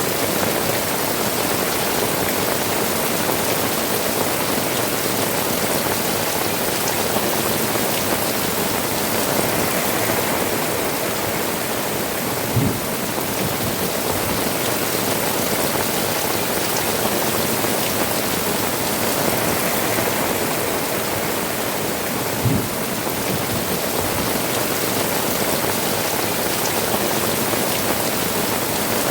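Heavy rain falling steadily on tiled roofs and pouring off the eaves, a dense even hiss. Two brief low thumps come through, one a little before halfway and another about ten seconds later.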